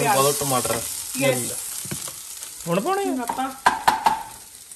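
Onion masala frying in oil in a pan, sizzling as it is stirred and scraped with a wooden spatula. A few sharp knocks come near the end.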